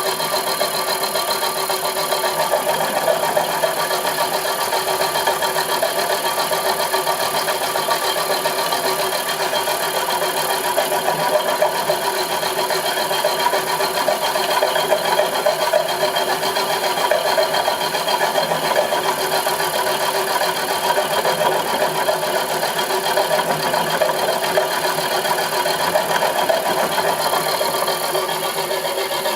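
Homemade milling machine running steadily: a constant whine of several steady tones over a rough, even mechanical noise.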